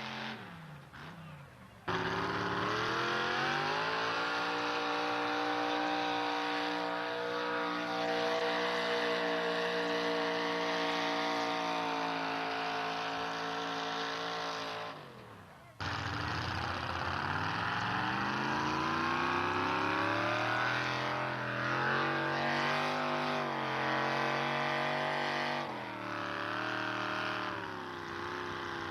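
Pulling truck engines held at high revs under full throttle in two runs, cut sharply one to the next. In the first run the engine pitch sags slowly as the truck drags the sled. In the second it climbs, then wavers near the end.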